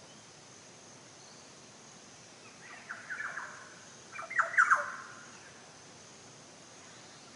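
A bird giving two short bursts of harsh, squawking calls about a second apart, the second louder, over a steady faint hiss of background noise.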